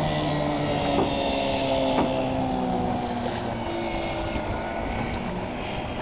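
A motorboat's engine running steadily on the water, a little quieter from about halfway, with two light knocks in the first couple of seconds.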